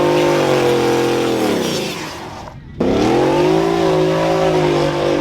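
Truck engine revved hard and held at high revs, easing down and then cutting back in suddenly almost three seconds in for a second long rev.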